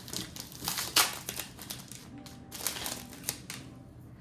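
Foil trading-card booster pack being torn open and crinkled, in several sharp rustles, the loudest about a second in.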